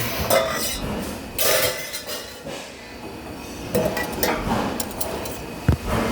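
Metal parts clinking and knocking, with a few short hissing bursts and a sharp knock near the end.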